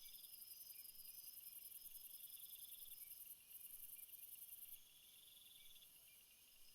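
Faint chorus of crickets chirping at night: a rapid, very high pulsing trill that cuts out about two-thirds of the way through, over steady repeated chirps lower down.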